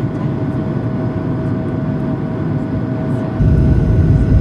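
Cabin noise inside an Airbus A220-300 jet airliner, its Pratt & Whitney geared turbofan engines running with a steady whine and rumble. About three and a half seconds in, the low rumble suddenly gets louder.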